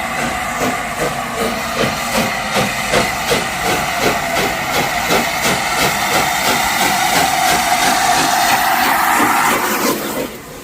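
LNER A4 Pacific Sir Nigel Gresley's three-cylinder steam engine working hard, with a rapid, even exhaust beat of about four to five chuffs a second over loud steam hiss. The sound drops away suddenly near the end.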